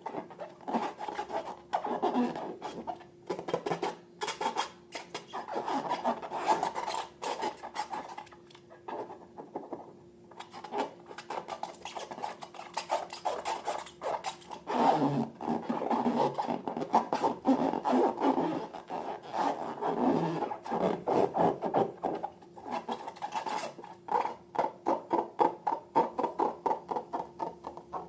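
Slime being worked by hand, a dense run of sticky clicks and crackles coming in bursts with short pauses. Near the end it settles into a regular squishing about three times a second.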